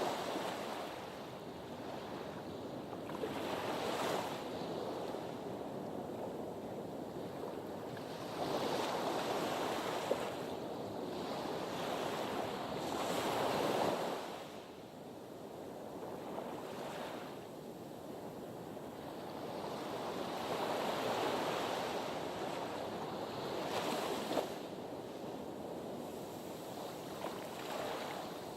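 Sea waves washing against a harbour breakwater, the surf swelling and falling back in uneven surges every few seconds.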